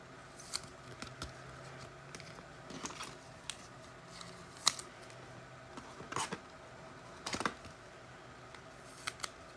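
Football trading cards and their packs being handled: irregular light clicks and short rustles as cards are slid, flicked and set down, the sharpest snap a little under halfway.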